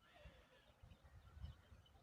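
Faint short bird chirps over low rumbling thumps, loudest about one and a half seconds in.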